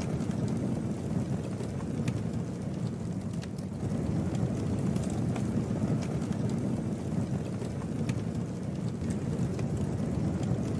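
Campfire burning: a steady low rush with scattered sharp crackles and pops.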